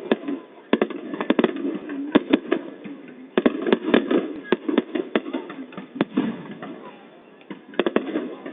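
Fireworks going off in sharp, irregular bangs, often several in quick succession, with a quieter stretch near the end, over the voices of onlookers.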